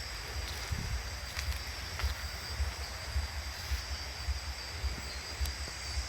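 A steady, high-pitched insect chorus, like crickets trilling, over a low rumble, with a few faint clicks.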